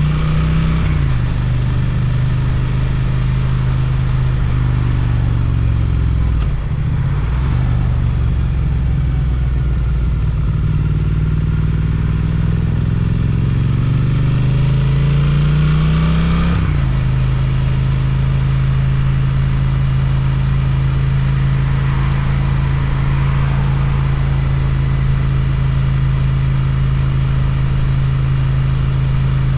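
Suzuki GSX-8TT motorcycle engine through an Akrapovic exhaust, running under way. Its pitch falls at the start and dips about seven seconds in, then climbs steadily for about nine seconds as the bike accelerates. About two-thirds of the way through it drops and holds a steady note for the rest.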